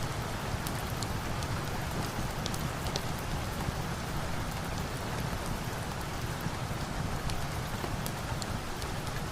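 Steady rain, an even hiss with scattered faint sharp ticks.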